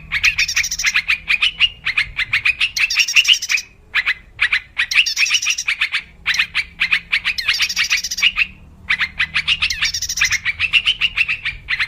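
Yellow-vented bulbul (trucuk) calling in fast bubbly chattering phrases, repeated in bouts with brief pauses between them.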